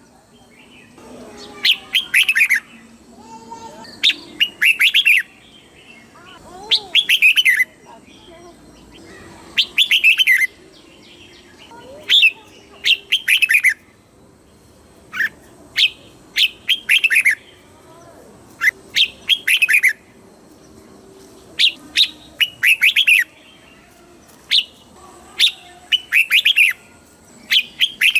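Red-whiskered bulbul singing: short, bright, chirpy phrases repeated every two seconds or so, with fainter lower bird calls underneath.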